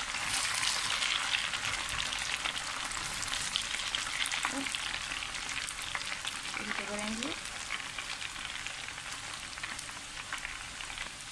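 Dried anchovies deep-frying in hot oil in a wok: a dense, crackling sizzle from the moisture boiling off a freshly added batch, easing slightly toward the end. The sizzle stays loud until the anchovies are cooked crisp, when it goes quiet.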